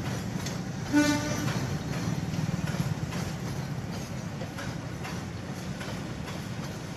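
Freight train of fuel tank wagons rolling slowly through the yard: a steady low rumble with faint clanks from the wheels and couplings. A short horn toot sounds about a second in.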